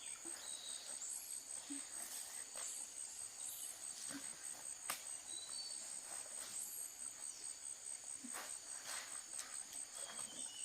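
Insects chirping in a steady, high-pitched pulsing trill, with a few scattered light clicks and knocks.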